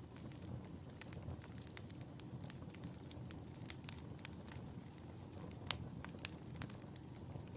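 Wood fire crackling in a fireplace: irregular pops and snaps over a low steady rumble, with one louder pop about two-thirds of the way through.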